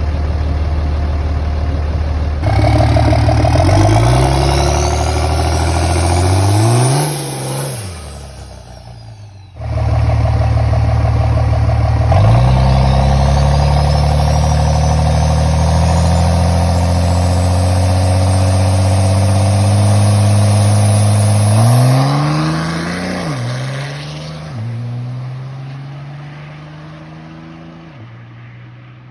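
Turbocharged diesel pickup truck accelerating hard twice. The engine pitch climbs with a rising turbo whistle above it, then drops and fades away.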